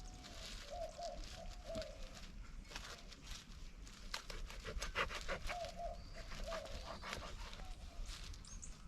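Short wavering calls from an animal, in two clusters, over scattered clicks and rustling.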